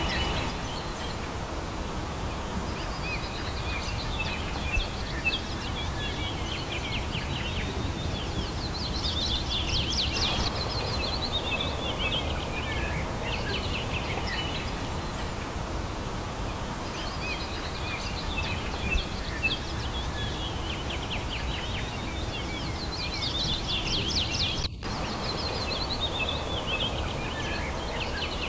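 Songbirds singing outdoors, repeating phrases of fast trilled notes that fall in pitch, several seconds apart, over a steady background hiss of open-air ambience. There is a very brief break in the sound about 25 seconds in.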